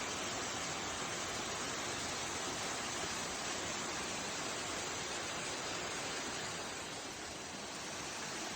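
Waterfall: a steady, even rush of falling water, easing slightly about seven seconds in.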